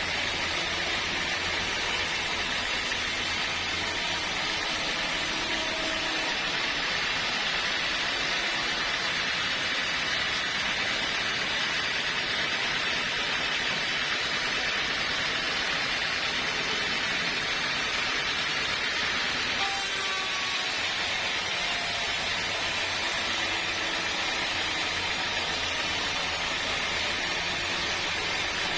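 Sawmill machinery running steadily, a continuous hissing whir with a low hum underneath; the sound thins and the hum drops about six seconds in, then returns fuller about twenty seconds in.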